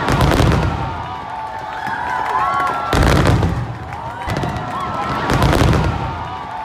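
Aerial fireworks bursting: two big booms about three seconds apart, each followed by crackling, with a crowd's voices between them.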